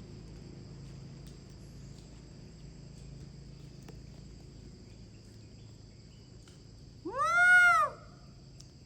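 A monkey gives a single loud call about seven seconds in, lasting under a second, its pitch rising and then falling.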